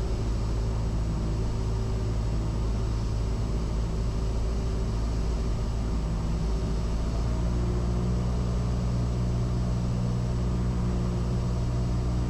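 Cessna 172's four-cylinder piston engine and propeller droning steadily in the cabin, its pitch shifting slightly a little over halfway through.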